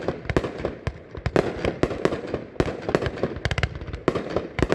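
Consumer fireworks cake firing shot after shot: sharp bangs and cracks several times a second, with a quick flurry of reports about three and a half seconds in.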